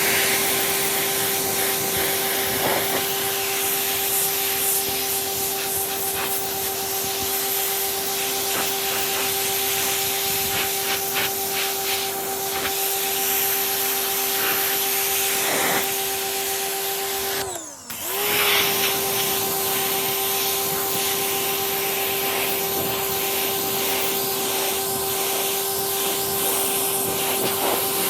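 Pressure washer running with its steady motor tone, water hissing from the spray wand onto a seat. About two-thirds of the way in, the tone briefly sags in pitch and loudness, then comes back up.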